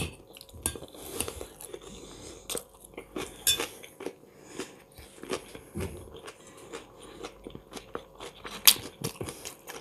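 Close-up chewing and crunching of fresh cucumber and tomato salad, a series of short crisp crunches, with a few sharp clicks of a metal fork against the dish, the loudest at the start and near the end.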